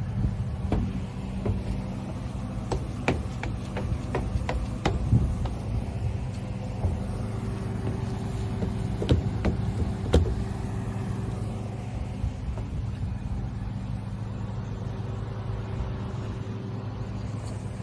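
Yamaha UF25 boat's engine running steadily at an even pitch. Sharp clicks and knocks sound over it several times in the first five seconds and again about nine to ten seconds in.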